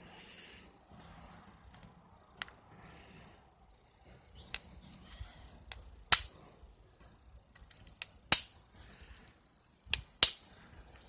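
Flintknapping strikes: a striker hitting a stone piece held in a pivot and fixed insert press, a few light taps and then four sharp loud cracks in the second half as flakes come off and thin the piece.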